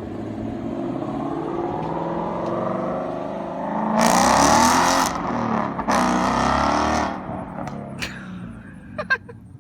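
Ford Mustang GT's 5.0-litre V8 through a Corsa Sport cat-back exhaust, driving by under hard acceleration. It gets louder as it approaches, is loudest for about three seconds with a brief dip about five seconds in, then fades as it moves away. A few sharp clicks come near the end.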